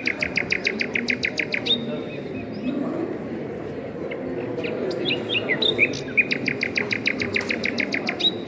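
A songbird singing two phrases about four seconds apart, each a few quick falling notes then a fast rattling trill, over a low steady background noise.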